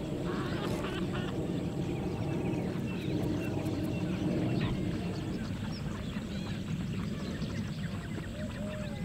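Birds calling in many short rising-and-falling notes over a steady low background din.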